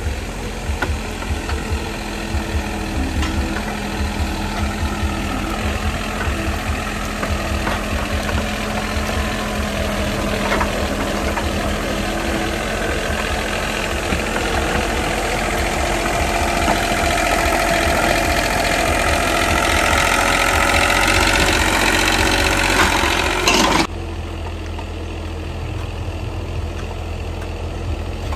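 An engine running with a fast, even low pulsing, gradually rising in pitch and getting louder, then changing abruptly to a quieter, steadier running about three-quarters of the way through.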